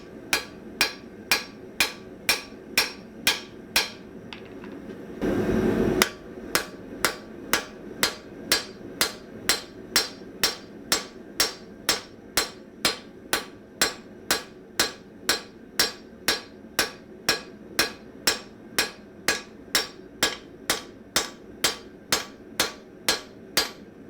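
Hammer blows on hot steel on an anvil, about two strikes a second, each with a short ring: forging down the working side of an anvil-shears jaw to thin it for relief behind the cutting edge. The blows pause about four seconds in, a short loud rushing noise follows, and then the steady hammering resumes.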